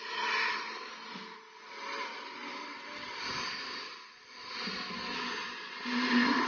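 Motorcycle revved through a homemade exhaust, giving a hissing whoosh that swells and fades four times.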